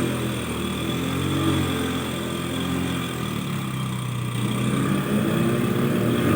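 A vehicle engine running steadily at low speed, a continuous hum that shifts slightly in pitch about halfway through.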